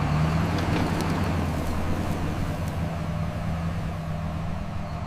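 An engine or machine running steadily: a low, even hum under a wash of noise.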